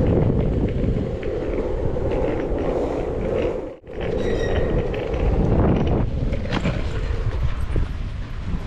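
Surfskate wheels rolling over pavement: a continuous loud rumble with a steady hum from the wheels, broken by an abrupt cut about four seconds in.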